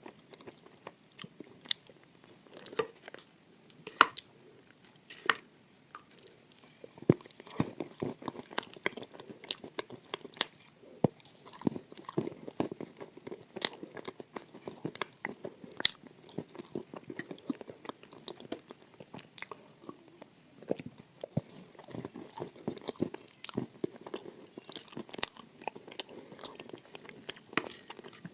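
Close-miked crunchy eating: a person bites and chews crisp food, with many sharp, irregular crunches between softer chewing.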